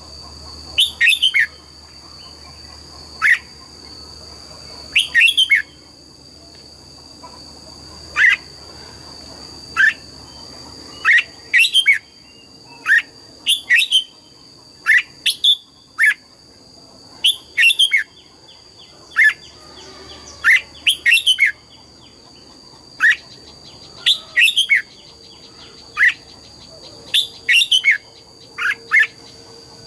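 Red-whiskered bulbul giving short, sharp chirps, each a quick falling note. They come singly or in quick runs of two to four, every second or two, over a steady high-pitched tone.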